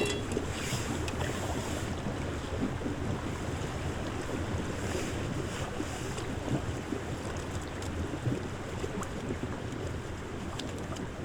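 Strong wind blowing steadily and buffeting the microphone.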